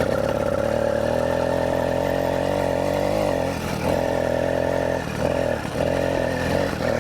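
The 80cc two-stroke engine bolted to a mountain bike runs at high revs under hard throttle, with one high, steady buzz. It dips briefly several times in the second half as the throttle is backed off and opened again.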